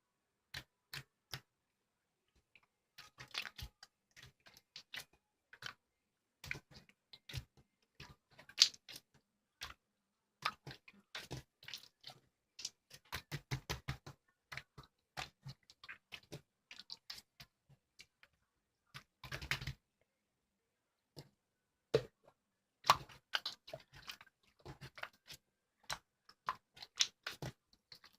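Slime being squished and poked by hand. It makes irregular runs of small sticky clicks and pops, with short pauses between them.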